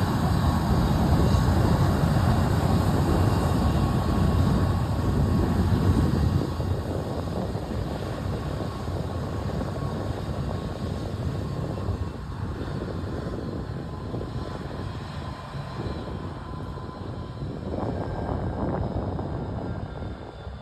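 Aircraft engine rumble, loud for the first six seconds, then fading as the plane moves away, with a faint steady whine over it.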